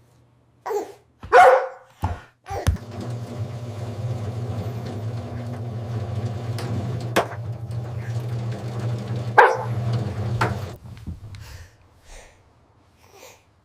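A dog barking a few times: a cluster of barks in the first three seconds, the loudest about a second and a half in, and one more bark about nine and a half seconds in. A steady low hum runs under the middle of the stretch.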